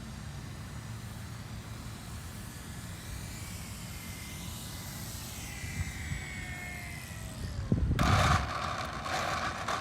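Electric RC model plane (E-flite Carbon Z Cessna 150) flying by with its brushless motor and propeller whining faintly, the pitch gliding downward over several seconds. About eight seconds in comes a loud rushing noise that lasts about two seconds.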